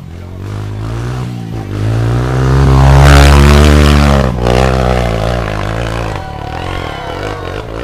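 Motorcycle engine revving hard under load on a steep uphill climb: the pitch rises to its loudest about three seconds in, drops suddenly about a second later, and the engine runs on at lower revs.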